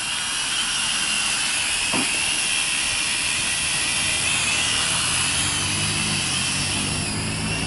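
Small quadcopter drone's propellers whining steadily, the high pitch wavering slightly as the drone is steered against the wind. A lower hum joins about five seconds in.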